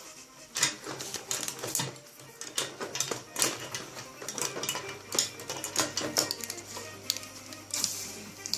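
Irregular light clicks and clatters of pens knocking on a hard surface as a cat bats at them and takes them, with music playing underneath.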